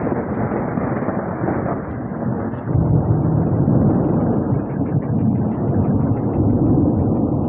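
Thunder rumbling in a long, loud roll that swells again about a third of the way in.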